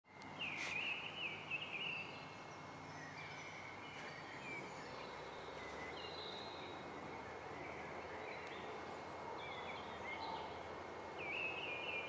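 Small birds chirping in quick, broken phrases over a soft, steady outdoor hush. The chirping is busiest in the first couple of seconds and again near the end.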